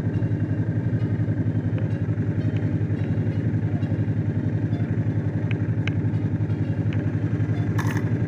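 Honda CX500's V-twin engine running steadily on the road, with an even, pulsing exhaust beat and no change in engine speed.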